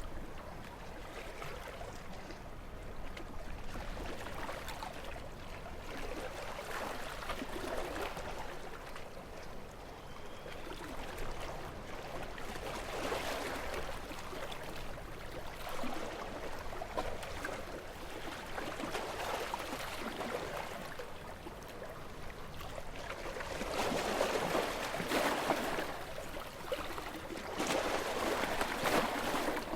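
Small waves lapping and washing on a shore in a calm sea, the splashing swelling and ebbing every few seconds, with the biggest washes near the end.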